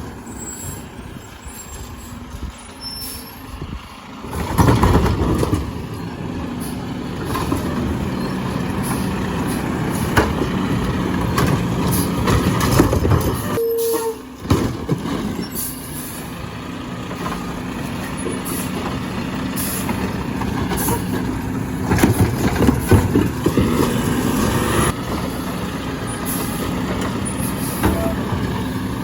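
Garbage truck running steadily, with several louder knocks and bangs as it works, one about four seconds in and a cluster a little after twenty seconds. The sound drops out briefly about halfway through.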